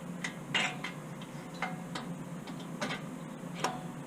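A few light, irregular clicks and taps of small metal parts and hand tools as the generator's carburetor and its linkage are fitted back in place, over a steady low hum.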